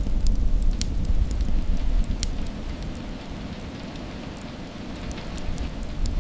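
Steady rainfall with scattered sharp drop hits over a heavy low rumble. The rumble eases in the middle and swells again near the end.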